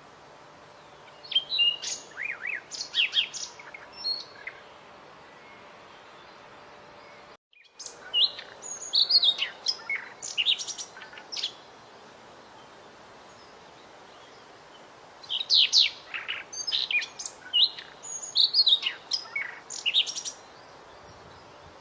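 Small songbird singing in three bursts of rapid, high chirps and short whistles, with quiet pauses between them and a brief cut to silence about seven seconds in.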